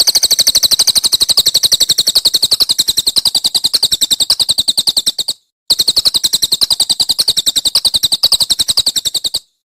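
A songbird delivering a very fast, machine-gun-like trill of sharp, high repeated notes, about ten a second, in two long runs with a brief break between them: the rapid 'tembakan' (shot) phrase used in masteran training recordings for caged songbirds.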